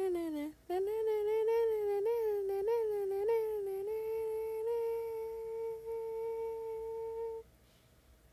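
A woman humming a tune with sliding, wavering pitch, settling into one long held note that stops a second before the end.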